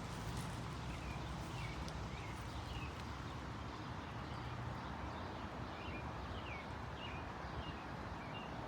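Small birds chirping repeatedly, short falling chirps every second or so, over a steady outdoor background hiss.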